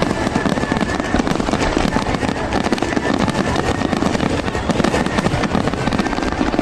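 Fireworks going off in rapid succession: a dense, continuous crackle of many small pops with no pause.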